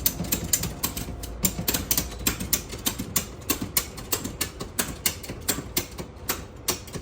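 Ratchet strap being cranked tight around a load, a quick run of sharp metallic clicks, several a second, that stops near the end.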